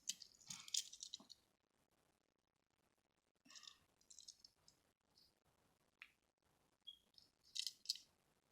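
Small hard objects being handled, clicking and rattling in four short, separate bursts with near silence between them.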